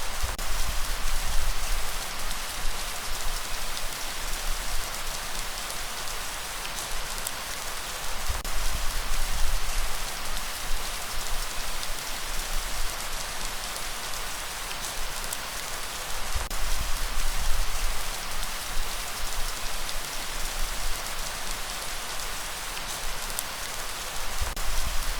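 Steady rain hiss, with a low rumble underneath that swells and eases about every eight seconds.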